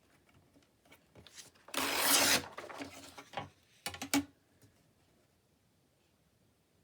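Sheets of printed paper being handled: a loud rustling slide about two seconds in, then a few short taps and clicks near four seconds.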